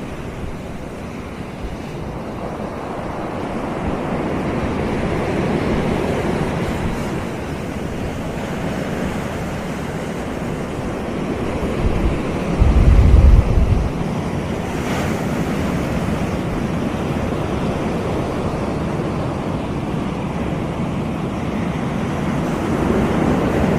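Caribbean surf washing onto a beach, a steady rush that swells and ebbs. About halfway through, a brief low rumble of wind buffeting the microphone is the loudest moment.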